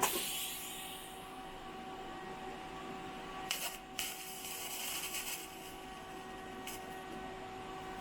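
TIG welding arc running steadily with a hiss and a steady whine, laying a small weld to hold the cam-sensor reluctor nub on a cam gear, with a few brief crackles partway through.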